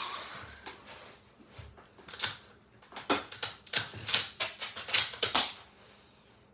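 The tail of a rifle shot fading out, then a quick irregular string of sharp mechanical clicks and clacks, about a dozen within three seconds.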